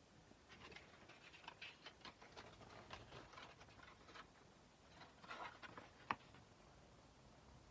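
Faint, irregular short scratching strokes and light clicks of hand sanding on a kukri's steel blade, with one sharper click about six seconds in.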